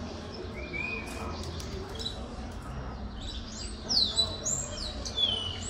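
Canary chirping: a short rising note under a second in, then a quick run of loud, high whistled notes that sweep downward from about four seconds, over a low steady hum.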